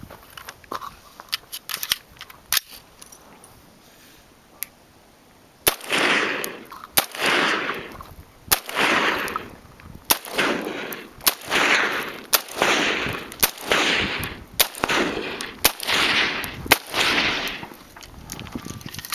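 AR-15 rifle firing a steady string of about a dozen shots, roughly one a second, starting about six seconds in. Each crack is followed by a long rolling echo.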